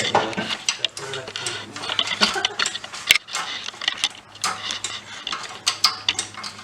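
Irregular metallic clinks and knocks of tools and hardware being handled during a car transmission installation, over a faint steady low hum.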